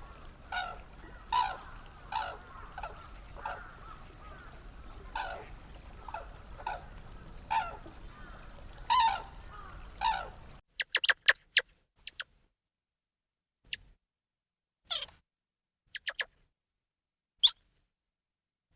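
A bird's short calls repeated every half second to a second over a steady background hiss. After a cut about ten seconds in, a few sharp, very high-pitched squeaks follow, with silence between them.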